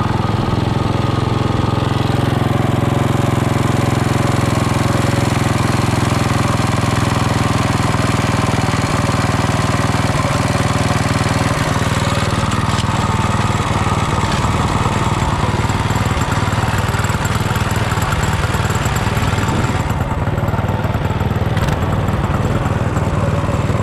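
Mini bike's small engine running steadily at an even speed, close to the microphone, just after being started.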